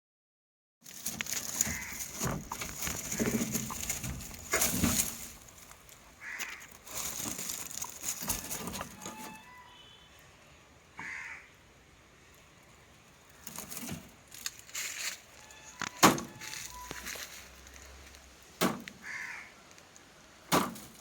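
Crows cawing now and then: single harsh calls several seconds apart, with sharp knocks and rustling between them.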